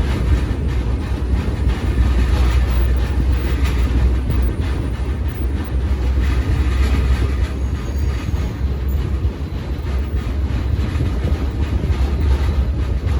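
Freight train rolling along, heard from aboard a car: a steady deep rumble of wheels on rail with rattling from the car.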